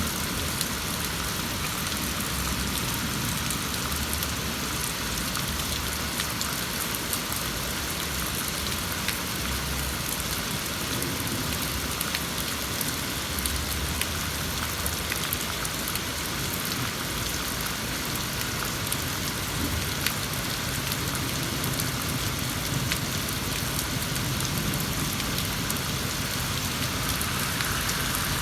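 Heavy rain pouring steadily during a thunderstorm, with sharp drops ticking on nearby surfaces. Brief low rumbles come and go at times.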